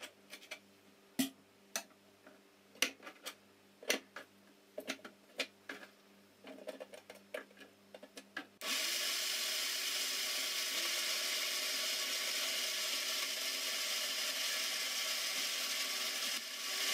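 A string of sharp knocks and taps as pineapple is cut on a board and the chunks are dropped into a plastic blender jar. About eight and a half seconds in, the countertop blender's motor starts suddenly and runs steadily, pureeing the fresh pineapple chunks. It dips briefly near the end and comes back louder.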